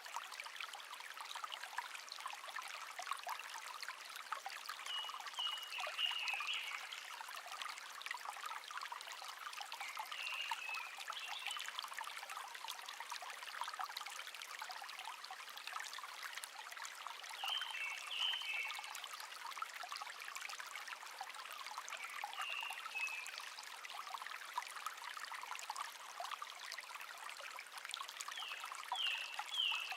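A shallow brook trickling and babbling steadily, with a wild songbird singing five short chirping phrases, one every five or six seconds.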